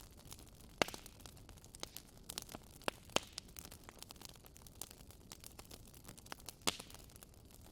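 Wood burning in a fireplace, crackling: scattered sharp pops and snaps over a faint steady hiss. The loudest pops come about a second in, around three seconds in, and near the end.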